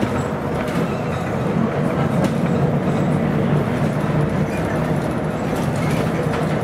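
Inside a Scania CN113CLL city bus on the move: its Scania DSC11 diesel engine runs steadily under a heavy rolling rumble, with light rattles and clicks from the body and fittings.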